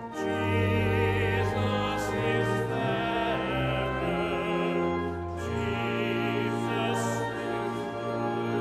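Sacred song with singing in a wide vibrato over sustained chords and held bass notes that change every second or two.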